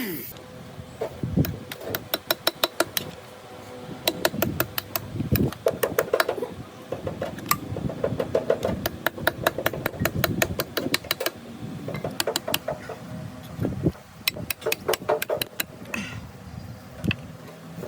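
Bursts of rapid metallic clicks, several a second, from hand-tool work on the engine in a workshop, with pauses between the bursts.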